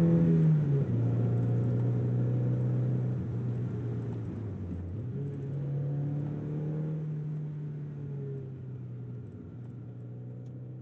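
Mazda MX-5 NB 1.6's four-cylinder engine running on E85 under way, heard from inside the cabin. Its note drops about a second in, climbs again around five seconds, drops once more near nine seconds, and the whole sound fades out toward the end.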